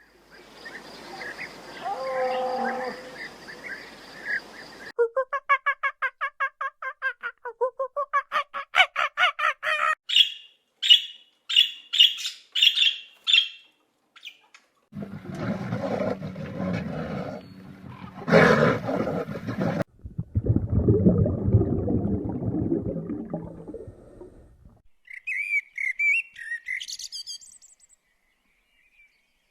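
A string of different animal calls one after another: a run of rapid, evenly repeated pitched calls that climb higher partway through, then low rough sounds, then a few high chirps near the end.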